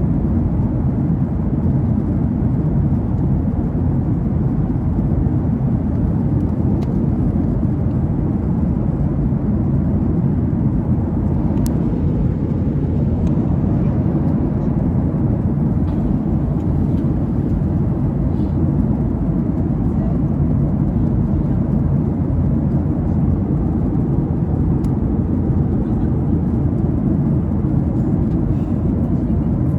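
Steady low drone of engines and rushing air inside an airliner cabin in flight, unchanging throughout.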